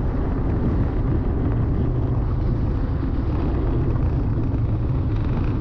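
Steady wind rumble and road noise from a motorbike rolling along with its engine switched off.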